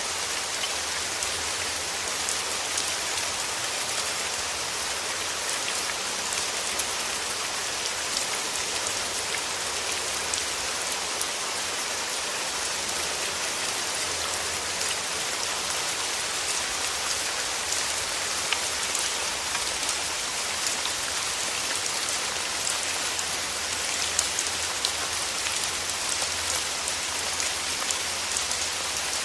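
Steady rain: an even hiss with many small drop ticks through it, constant throughout.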